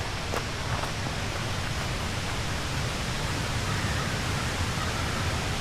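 Steady rush of a waterfall, a continuous roar of falling water. A couple of footsteps on the gravel trail in the first second.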